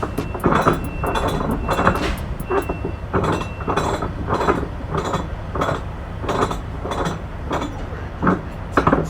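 Repeated metallic clinks and knocks, roughly two a second, over a steady low rumble. A faint short beep repeats several times during the first few seconds.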